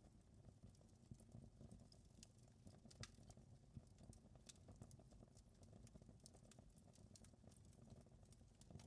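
Faint wood fire crackling: irregular small pops and snaps over a steady low rumble.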